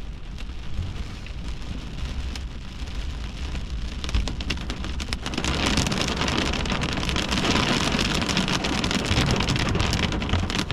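Heavy thunderstorm rain hitting the outside of a car, a dense spray of drop impacts that grows much heavier about five seconds in.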